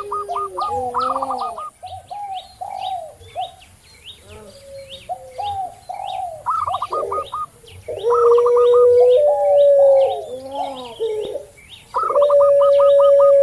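Doves cooing together: zebra doves (perkutut), spotted doves (tekukur) and a long-voiced puter pelung dove. There are long steady low coos held for a second or more, about eight seconds in and again near the end, along with quick purring trills and short arching coos. Small birds chirp high and fast throughout.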